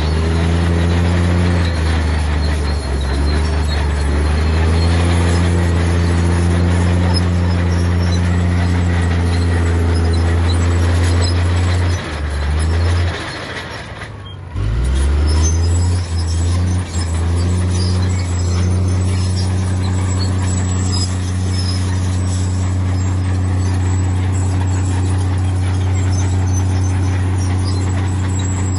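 Heavy diesel engine of earthmoving machinery running under load, its pitch shifting slightly as it works. About twelve seconds in the engine drops off sharply and goes quiet, then revs back up a couple of seconds later and settles to a steady run.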